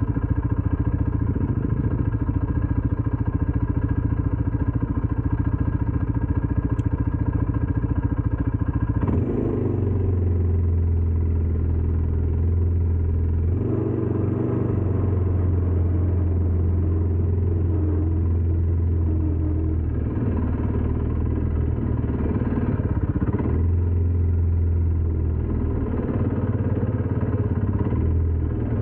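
ATV engine running, its note changing about nine seconds in and then rising and falling a few times.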